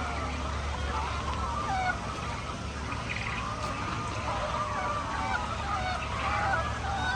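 A flock of laying hens calling: many short, overlapping clucks and squawks, with a steady low hum underneath.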